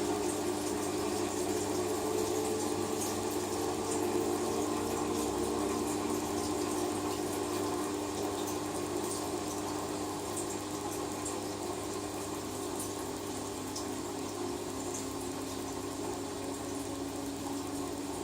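LG WT-R852 direct-drive washing machine running with water flowing through it and a steady pump-like hum, slowly getting quieter.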